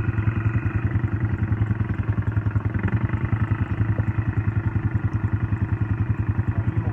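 Small ATV engine running steadily at low speed, with an even, fast putter.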